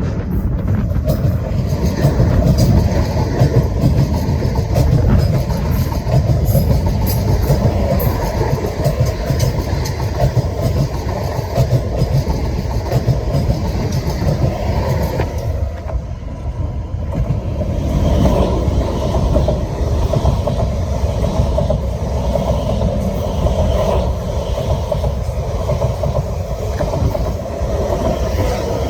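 A passenger train running on the track: a loud, steady rumble of wheels on rails, dipping briefly about halfway through.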